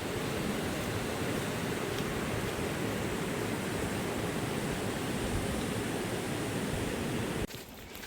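Steady, dense rush of water, like heavy rain or fast-running water, with no rhythm; it cuts off suddenly near the end.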